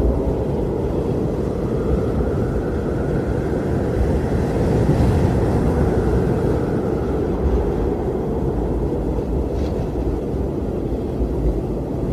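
Blizzard wind blowing hard and steadily, a deep rumbling rush with a faint whistling howl that rises and falls.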